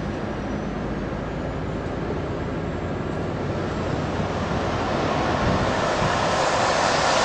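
Volvo truck approaching: a steady rush of tyre and road noise that grows gradually louder toward the end.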